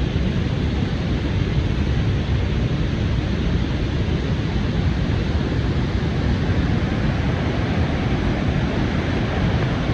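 Niagara Falls' water plunging over the falls in a deep, steady rush that does not let up.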